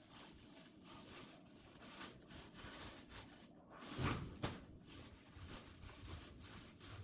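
Faint knocks and clatter of split oak firewood being handled and stacked, with the loudest knocks about four seconds in.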